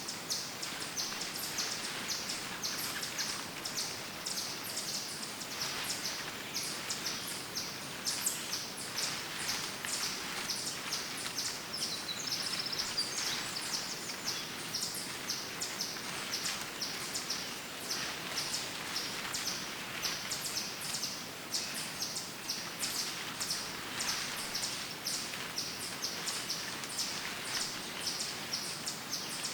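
Woodland birds chirping and singing continuously in many short, high notes, over footsteps crunching through dry fallen leaves.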